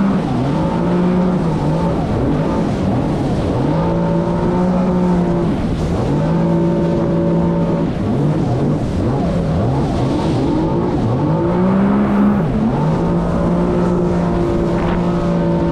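Jet ski engine running hard under throttle. Its note climbs several times and then holds steady at high revs.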